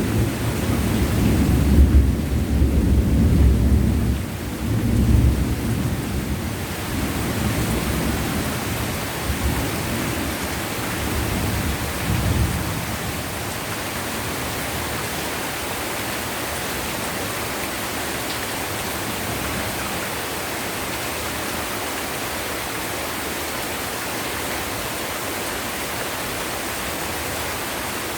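Heavy rain pouring steadily, with a low rumble of thunder under it for the first dozen seconds or so, loudest about two to five seconds in, that fades away and leaves only the even hiss of the rain.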